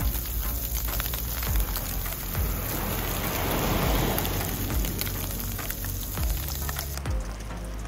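Surgeonfish fillet frying in hot oil in a wok: a steady, crackling sizzle that swells in the middle, under background music with a steady beat.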